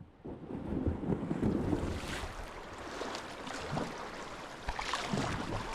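River water splashing and rushing around a kayak, with several sharper splashes from paddle strokes, over wind buffeting the microphone.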